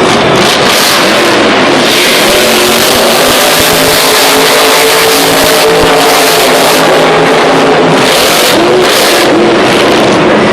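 Grave Digger monster truck's supercharged V8 engine revving hard throughout, its pitch rising and falling, with a few quick rising revs near the end.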